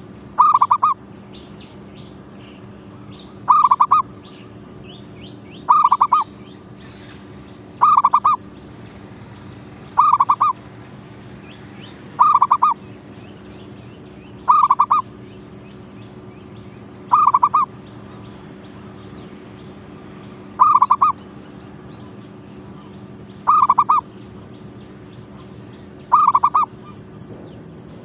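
Zebra dove (merbuk) cooing, a short stuttering call repeated about every two to three seconds, eleven times. It is the decoy dove calling to lure a territorial wild dove.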